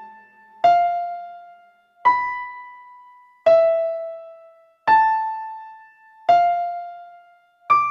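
Slow dungeon synth melody of single keyboard notes, one struck about every second and a half, each ringing out and fading before the next; six notes, the last one higher, near the end.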